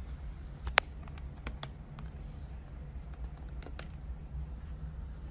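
Scattered sharp clicks over a steady low hum, the loudest click about a second in, with a small cluster of clicks around three and a half seconds.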